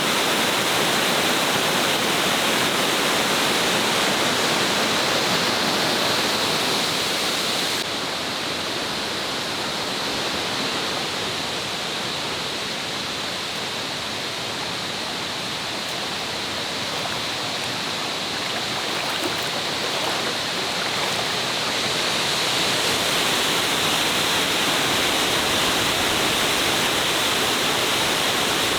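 Waterfall pouring, a steady rush of falling water. It turns somewhat quieter and duller from about eight seconds in, and comes back to full strength at about twenty-two seconds in.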